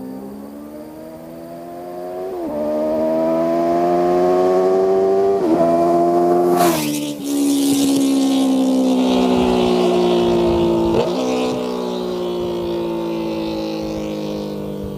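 Benelli motorcycle accelerating through the gears, its engine pitch climbing in each gear with quick upshifts. It passes close about seven seconds in, dropping in pitch as it goes by, and shifts once more as it pulls away and fades.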